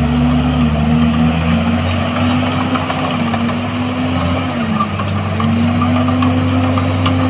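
Diesel engine of heavy earthmoving machinery running steadily under load; its pitch sags about four to five seconds in, then climbs back up.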